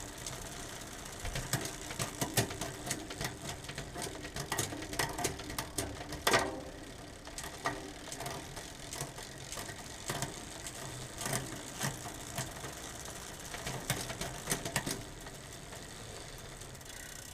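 Road bike drivetrain with a 10-speed Shimano Ultegra rear derailleur: the chain running over the cassette as the cranks are turned, with repeated sharp clicks and clatter as the chain shifts between sprockets.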